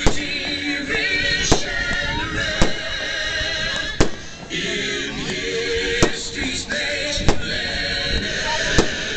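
Small fireworks going off in sharp single bangs, about seven of them spaced one to two seconds apart, over loud music with singing.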